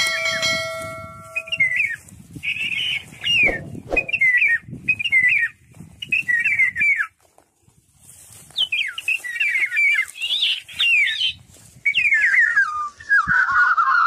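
Birds calling: short warbling chirps repeated every half second or so, pausing briefly around the middle, and a longer, louder falling call near the end. A steady whistle-like tone sounds for the first two seconds.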